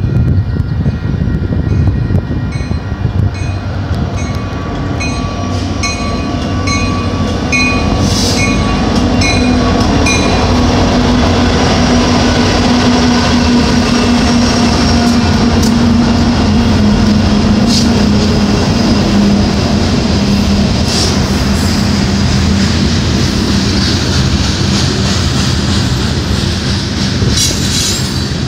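Union Pacific freight train passing: the diesel locomotives run by with a low steady drone, then a long string of loaded covered hopper cars rolls past with wheels rumbling and squealing on the rails. A grade-crossing bell rings in a steady rhythm for the first eight seconds or so.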